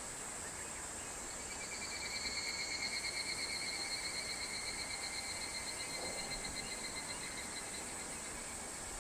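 Higurashi (evening cicada) calling: a rapid pulsing trill that starts about a second and a half in, swells, then fades away over several seconds, over a steady high hiss.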